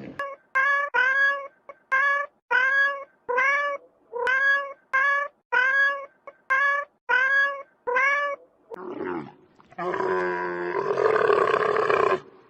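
A cat, high-pitched like a kitten, meowing over and over: about eleven short, slightly rising meows, roughly one every 0.7 s. Near the end a longer, rougher animal call follows.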